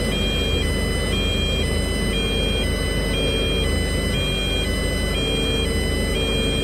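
Two-tone emergency-vehicle siren, switching between a high and a low pitch about every half second, over a steady low rumble of engine and road noise.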